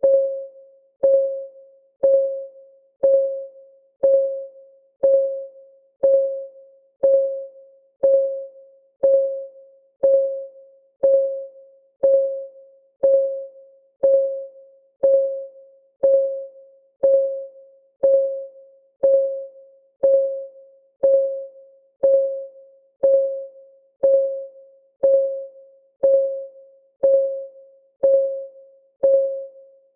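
Timer's clock-ticking sound effect, one tick a second. Each tick is a short, clear, mid-pitched tone that fades within about half a second.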